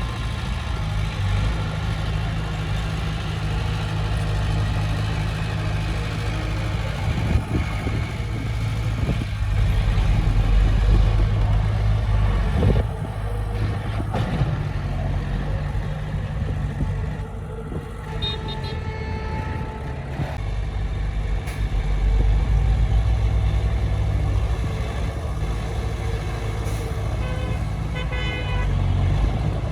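Komatsu D20P bulldozer's diesel engine running under changing load, swelling louder twice as it works, with a few brief high-pitched squeals from the running gear.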